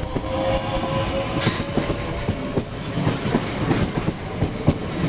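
Class 465 Networker electric multiple unit moving through the station, its wheels clicking over the rail joints, with a faint motor whine in the first second and a brief hiss about a second and a half in.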